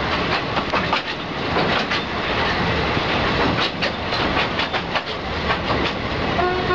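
Passenger train running across a steel truss bridge, heard from an open carriage window: a steady rumble with wheels clattering over the rail joints. Near the end the locomotive's horn starts to sound, one steady chord.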